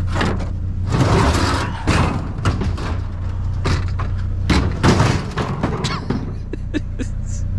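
Irregular thuds, knocks and clatter of a heavy plastic dishwasher being handled and shifted, over a steady low hum.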